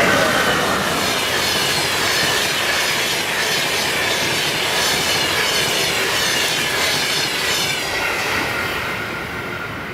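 Passenger train passing close at high speed: a loud, steady rush of wheels on rail and moving air, easing slightly toward the end.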